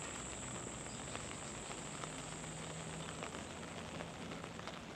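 Light rain pattering, with scattered faint drop ticks over a soft steady hiss and a steady high-pitched whine in the background.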